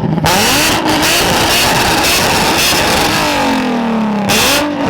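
Car engine revved hard through a homemade exhaust with test pipes, the catalytic converters replaced by straight pipes. It is held at high revs for about three seconds, the revs fall away, and a second short, loud blip comes near the end before the revs drop again.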